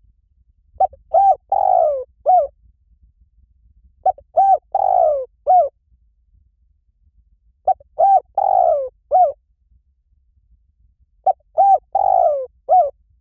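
Spotted dove calling: four repeated phrases about three and a half seconds apart. Each phrase is a few quick coos, a longer falling coo and one last short coo.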